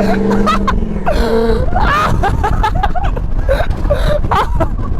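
A small pit bike engine running steadily, which drops away about a second and a half in. It gives way to a loud rough rumble with many short squeaky cries over it.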